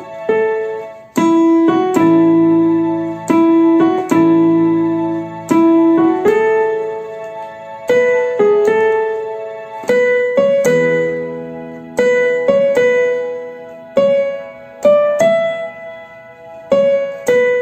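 Electronic keyboard in a piano voice playing a slow passage of a song: notes and chords struck about once a second, each ringing and fading before the next.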